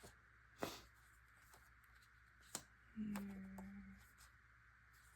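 Quiet paper handling while laying out a scrapbook page: a couple of sharp light taps as paper pieces are set down, then a brief low hum lasting about a second, about three seconds in.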